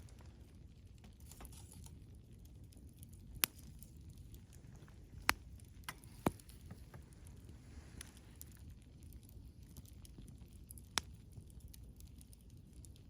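Wood campfire burning with a steady low rush, broken by a few sharp pops from the burning wood, the loudest two near the middle and another near the end.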